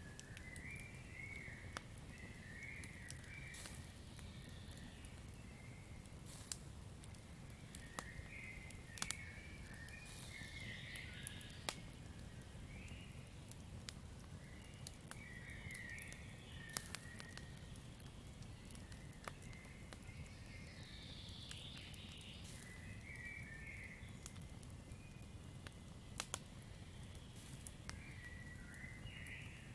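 Campfire crackling, with scattered sharp pops over a low steady rumble. Short chirping calls come and go every few seconds.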